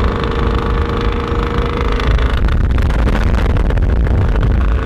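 Vehicle engine running while driving, a steady hum that turns about two seconds in into a louder, rougher rush of engine and road noise with short crackles.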